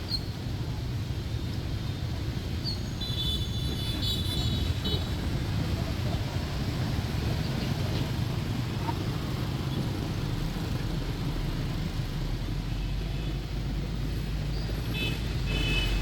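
Steady rumble of city road traffic and a bus engine, with short high beeping horn toots about three seconds in and again near the end. A deeper engine hum comes in about halfway through.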